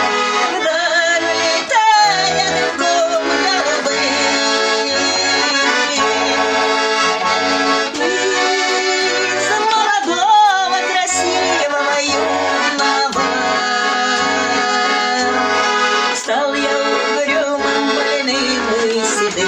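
Garmon, a Russian button accordion, playing an instrumental melody over a steady pulse of bass notes and chords.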